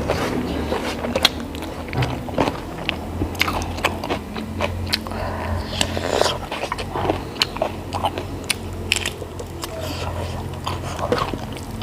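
A person eating close to the microphone: irregular biting, crunching and chewing with many small mouth clicks, over a steady low hum.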